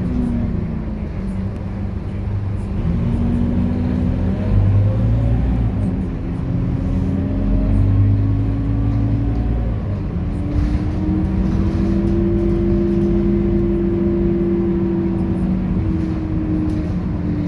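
Scania K230UB city bus with its 9-litre five-cylinder diesel running under way: a steady low rumble with a whine that dips just after the start, holds, climbs about ten seconds in and falls again near the end as the bus changes speed.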